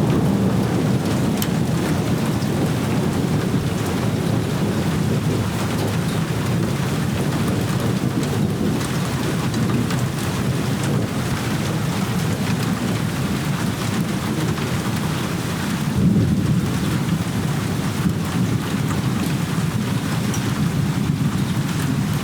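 Heavy rain falling steadily with low, rolling thunder from a thunderstorm. The rumble swells about three-quarters of the way through.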